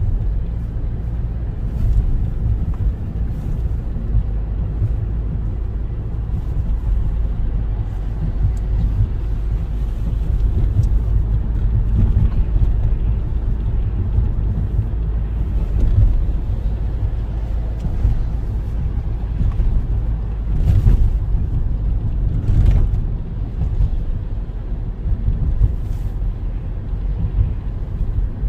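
A car driving, heard from inside the cabin: a steady low rumble of road and engine noise, with a few brief knocks about two-thirds of the way through.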